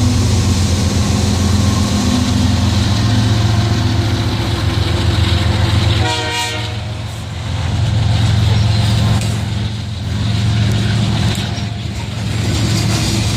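Train running with a steady low rumble, and a brief horn note about six seconds in.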